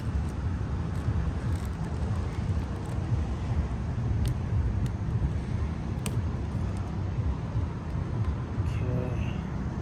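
Steady low outdoor rumble of background noise, with a couple of faint clicks about four and six seconds in.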